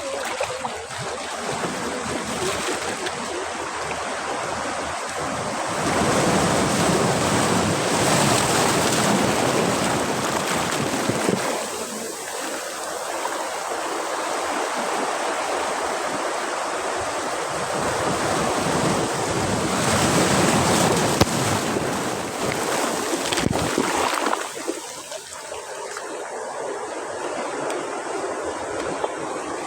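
Sea waves breaking and washing up on a beach, a continuous rush of surf that swells into two louder surges, one a few seconds in and another about two-thirds of the way through, then falls back.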